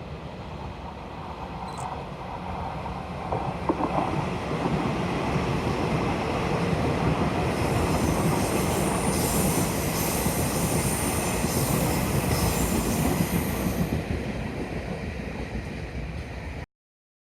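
Taiwan Railways Puyuma express, a TEMU2000 tilting electric multiple unit, passing on an S-curve: a rumble of wheels on rail builds up, and high wheel squeal rings over it for about six seconds at the loudest part. The sound cuts off suddenly near the end.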